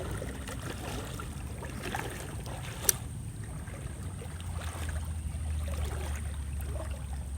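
Faint sounds of moving floodwater under a low steady hum that grows stronger about halfway through, with one sharp click about three seconds in.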